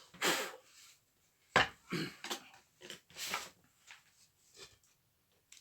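Knocks, clatters and scrapes of vacuum cleaner parts being handled and fitted together during reassembly, with the sharpest knock about one and a half seconds in.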